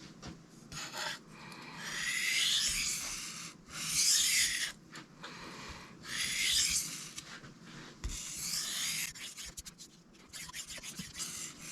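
Cold Steel Mayhem knife blade scraped across a Sharpal 162N diamond sharpening plate on its second side. Four gritty strokes of about a second each are followed by a quick run of short strokes near the end.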